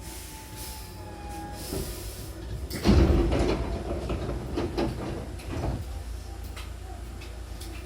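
Sliding passenger doors of a Hankyu Kyoto Line train moving along their track and meeting their stop with a loud thump about three seconds in, followed by rattling as they settle. Under this, the train's low rumble runs steadily.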